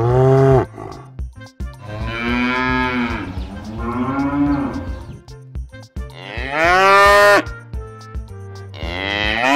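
Cows mooing: several long, drawn-out moos one after another, each bending up and down in pitch, with a new moo starting near the end.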